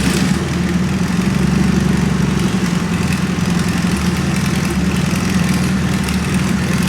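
Turbocharged Nissan KA24 four-cylinder in a 1993 Nissan 240SX idling steadily, just after its first start on E85 fuel.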